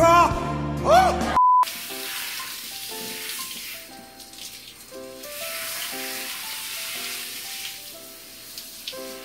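A man singing loudly into a microphone for about a second and a half, cut off by a short beep. Then a handheld shower head sprays a steady hiss of water over a wet dog, with soft, evenly paced background music notes.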